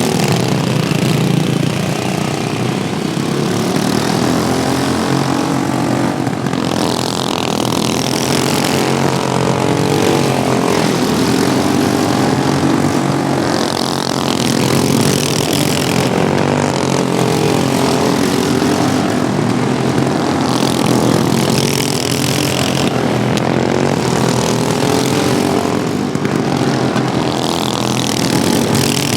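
Several modified racing lawnmower engines running hard together, their pitch rising and falling as they lap, with a brighter surge every several seconds.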